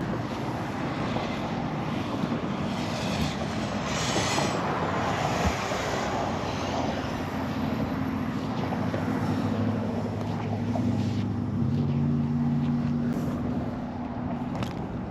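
Road traffic passing on a bridge, a steady tyre rush that swells and eases. From about seven seconds in until near the end, a vehicle's low engine drone is heard.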